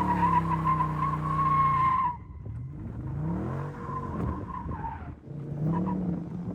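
Car tires squealing in a burnout or donut over a high-revving engine, the squeal holding one steady pitch and stopping about two seconds in. The engine then revs, its pitch rising and falling, and revs up again near the end.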